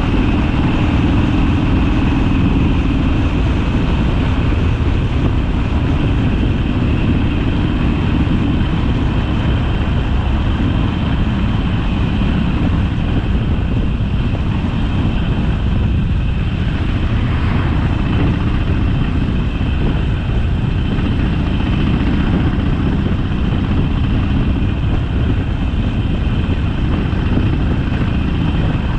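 Harley-Davidson Sportster's air-cooled V-twin engine running steadily while the motorcycle is ridden along the road, with a rushing haze of road and wind noise over it.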